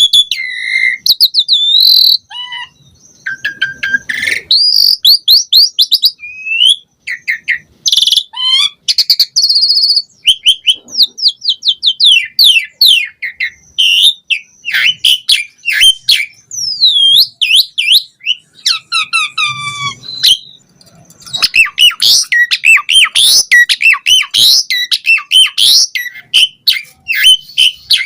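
Asian pied starling (jalak suren) singing a long, varied song of clear whistles, fast runs of repeated chattering notes and rising and falling glides, broken by short pauses about seven and twenty seconds in.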